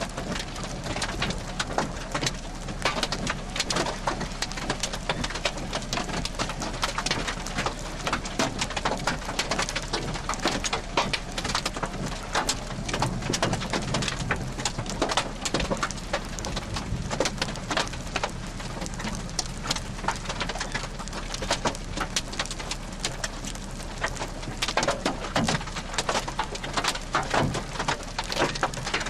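Rain falling on a hard surface: dense, irregular drop impacts over a steady low hum.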